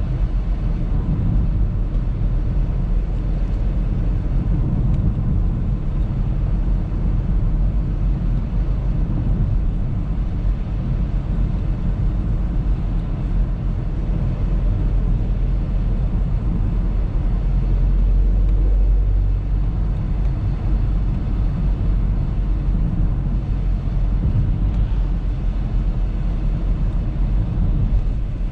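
Audi A3 driving along: a steady low rumble of engine and road noise.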